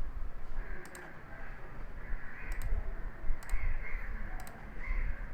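Computer mouse clicking a handful of times, some as quick double clicks, over a steady low hum. Short harsh calls recur in the background about once a second.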